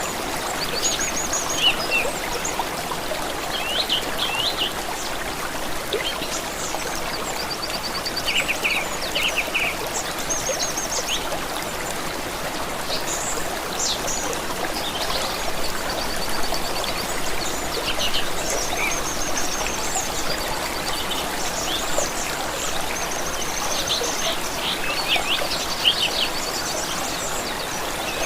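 A stream running steadily, with several small birds calling and singing over it: short rapid trills and chirps come again and again.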